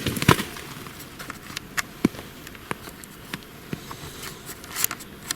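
Footsteps through forest undergrowth, with irregular sharp cracks of twigs and rustling of litter underfoot.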